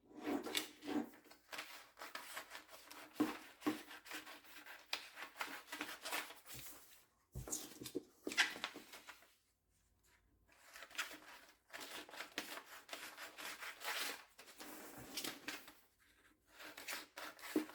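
Scissors cutting through taped-together paper, a run of short irregular snips with paper rustling, and a brief pause partway through.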